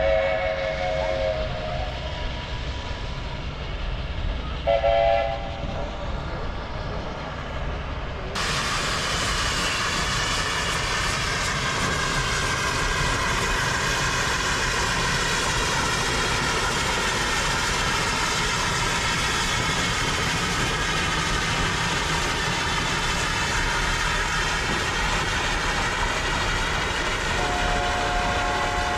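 A Mount Washington Cog Railway train running, with short blasts of its chime horn near the start, again about five seconds in, and a longer one near the end. About eight seconds in the running noise changes to a steadier, fuller sound.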